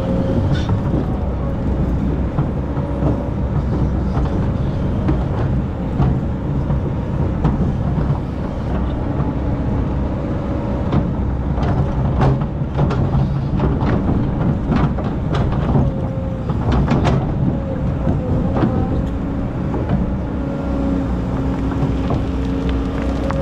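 Excavator's diesel engine running steadily, with a held whine over the rumble and a cluster of sharp knocks and clanks about halfway through, typical of the bucket digging and scraping sand.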